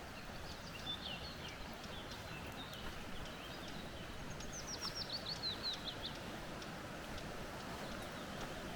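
Small birds singing over a steady rush of flowing creek water: warbling notes in the first few seconds, then a quick run of about ten descending whistled notes around the middle.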